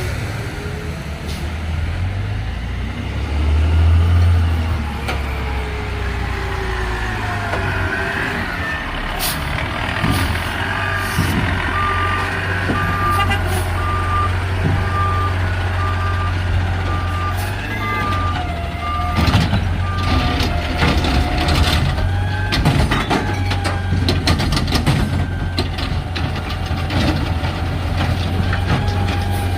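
Garbage truck's diesel engine running steadily while its reversing alarm beeps about once a second for roughly ten seconds. Toward the end there are repeated knocks and rattles.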